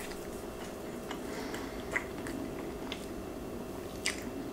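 Quiet close-up chewing with a few faint scattered clicks over a steady low hum, along with the small sounds of a pet running about and eating dry food.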